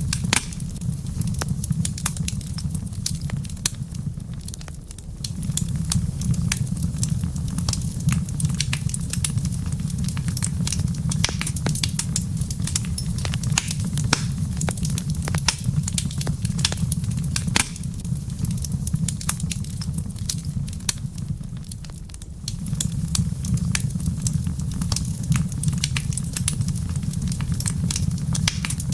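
Wood fire in a fireplace crackling, with frequent sharp pops and snaps over a steady low rumble that eases off twice.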